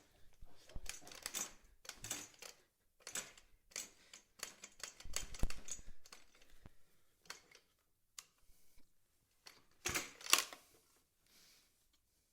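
Irregular clicks, knocks and plastic clatter of hands working on a petrol line trimmer, with the engine not running. The loudest knocks come about halfway through and again near the end.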